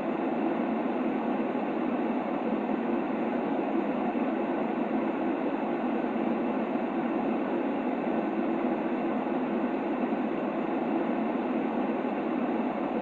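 Steady, unchanging white-noise track for lulling a baby to sleep, a deep rushing hiss weighted toward the low end with little high treble.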